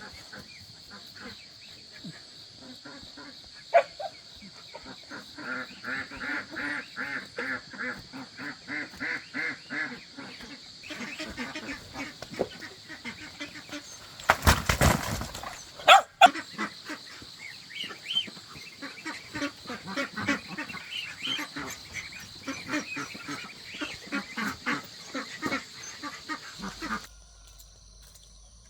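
Domestic waterfowl calling in rapid runs of repeated notes, a few a second, over a steady high hiss. There is a sharp click a few seconds in and a brief loud noisy burst about halfway through. The calls stop abruptly near the end.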